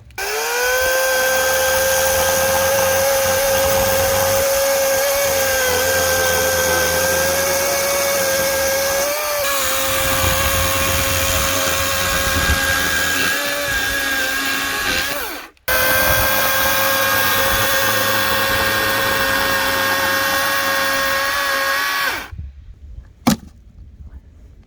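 Electric power tool motor spinning up and running with a steady whine while firewood is being cut. It breaks off for a moment about two-thirds of the way in, resumes, and stops near the end, followed by a few sharp knocks.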